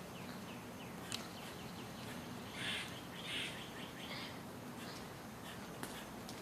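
Faint birds chirping in the background, with a single soft click about a second in.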